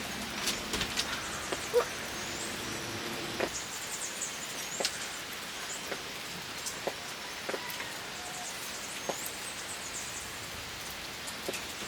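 Steady rain falling, with scattered single drops tapping nearby and faint high-pitched chirps now and then.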